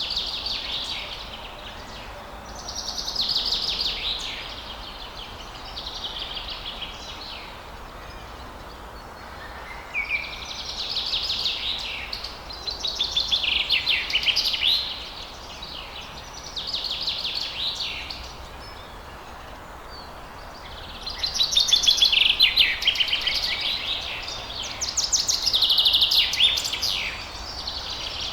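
Songbird singing in repeated fast trilling phrases, each a second or two long and a few seconds apart, over a steady faint background hiss.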